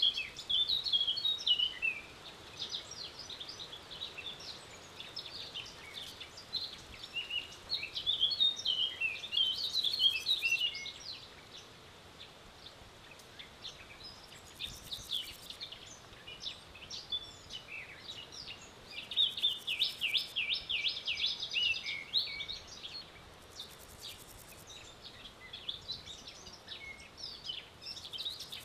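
Small birds singing and chirping in varied short phrases, with a quick trilling run about two-thirds of the way through.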